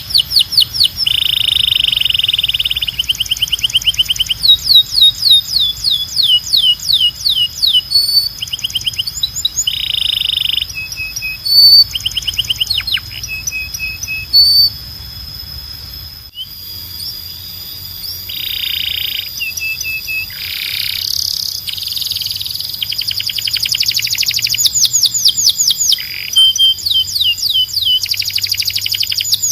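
Canary singing: fast trills of rapidly repeated falling notes alternating with buzzy rolls and short whistled notes, with a brief drop in loudness about halfway through.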